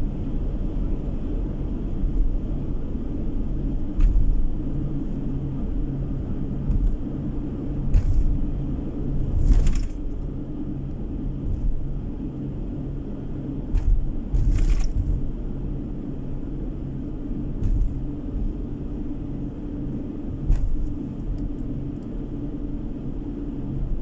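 A car driving, heard from inside the cabin: a steady low engine hum and road rumble, with a handful of short thumps and knocks scattered through.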